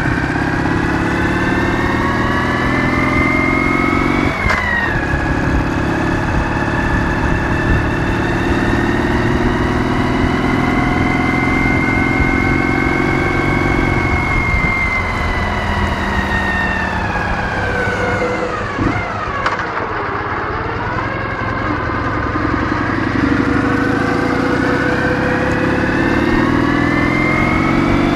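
Ural motorcycle's 650 cc flat-twin engine under way. The revs climb, drop sharply with a gear change about four seconds in, hold and slowly ease off, dip about two-thirds of the way through, then climb again near the end.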